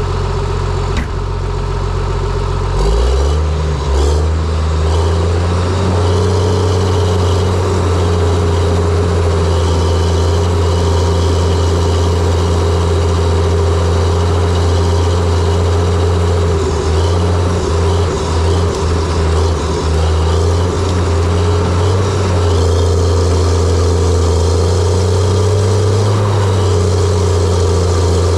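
Diesel engine of a John Deere 700J-II crawler dozer idling, then revving up about three seconds in and running steadily at high revs. The revs waver briefly a few times around the middle.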